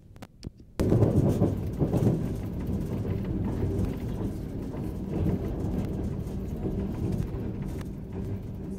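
Loud, steady low rumble of a train running on the rails, starting abruptly about a second in after a few faint clicks.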